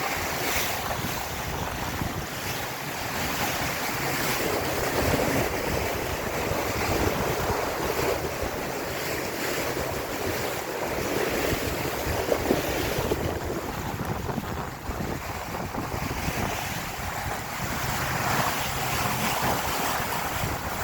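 Wind buffeting the microphone over the rush of water along a sailboat's hull as it sails in strong wind, a steady noise that swells and eases.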